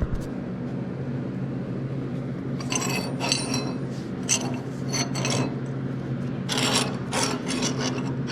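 Welded steel hinge plates and pin brackets clinking and rattling against each other as they are handled, in several short bunches, over a steady low hum.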